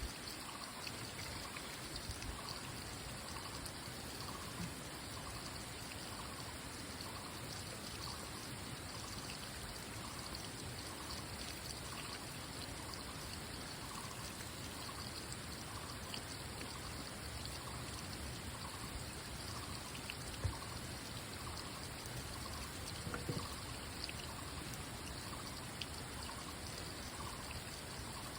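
Water trickling and pouring steadily, as from a small stream, with a faint short note repeating about every half second behind it.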